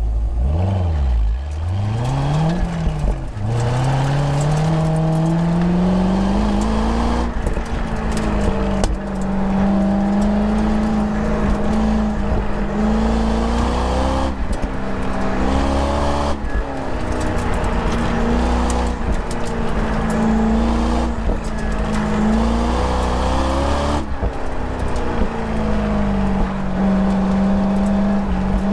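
2001 Chevrolet Corvette's V8 engine driven hard on an autocross run. The revs swing up and down at the start, then climb steeply through a long pull. After that the engine holds high, steady revs with brief drops every few seconds as the driver lifts for corners.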